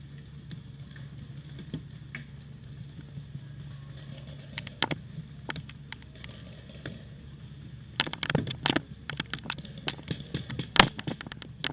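Paintball fire: sharp cracks of incoming paintballs and markers shooting. There are a few scattered shots about four to five seconds in, then a dense volley from about eight seconds, with the loudest crack near the end.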